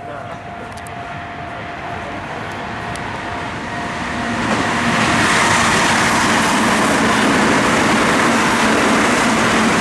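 Electric commuter train approaching and running past on the track, its noise building over the first five seconds or so into a steady loud rumble and rush of wheels on rail.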